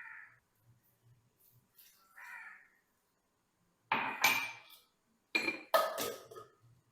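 Metal pots and utensils clattering in a kitchen, in two loud spells about four and five and a half seconds in. Crows cawing outside come in before them, twice.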